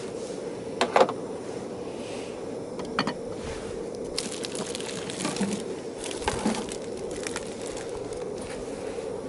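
Wood fire crackling, with sharp pops about one and three seconds in and a run of crackles in the middle.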